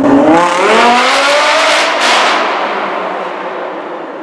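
A high-performance car engine revving up hard under acceleration, its pitch climbing for about a second and a half, with a sharp noisy burst about two seconds in, then fading away as the car moves off.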